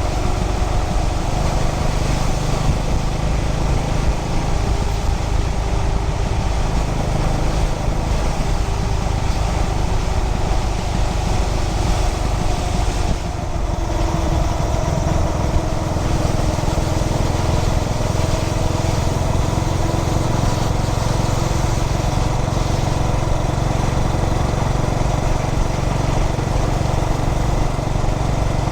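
2003 Yamaha SR400's air-cooled single-cylinder four-stroke engine running steadily under way, mixed with wind and road noise. The sound eases briefly about halfway through.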